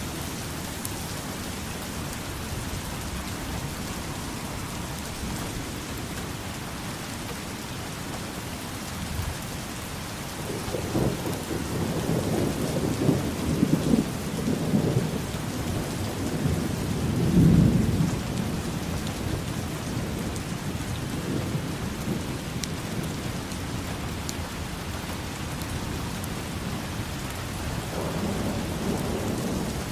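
Steady rain falling, with a long roll of thunder that builds about a third of the way in and is loudest just past halfway, then a fainter rumble near the end.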